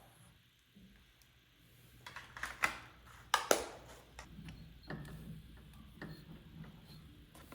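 A few sharp clicks and knocks of wood and tools being handled, loudest about two to three and a half seconds in, over a faint low hum.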